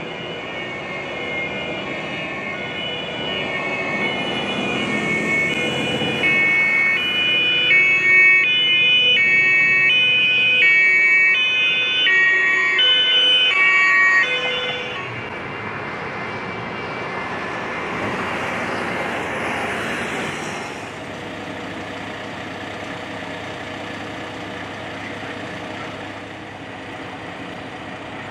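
Fire engines' two-tone sirens (German Martinshorn) sounding as they arrive, alternating between a high and a low note, loudest midway and stopping at about the halfway point. Afterwards a heavy vehicle's engine swells briefly, then a steady engine hum continues.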